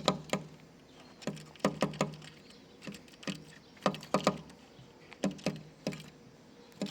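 A small bird's beak pecking at a hard surface: about a dozen sharp, irregular taps, sometimes two or three in quick succession.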